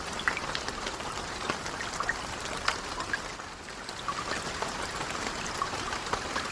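Steady rain with a wood fire crackling in a fireplace: an even hiss with scattered sharp pops throughout.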